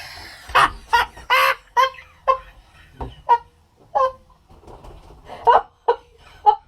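A person laughing in short, irregular, honking bursts.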